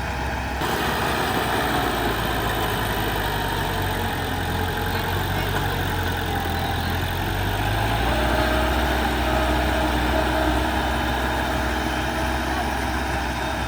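Heavy diesel engine of earthmoving machinery running steadily, its note changing about eight seconds in as the revs shift.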